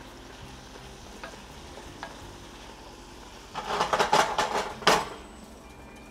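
Vegetables frying in butter with a steady, faint sizzle. A little past halfway a utensil stirs and clatters against the pot for about a second and a half, ending in a sharp knock.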